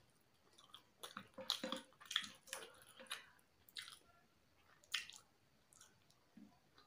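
A person chewing and biting chicken from a plate of biryani, eaten by hand: faint, wet mouth clicks and smacks in irregular clusters, busiest between about one and three seconds in, with a last sharp smack around five seconds.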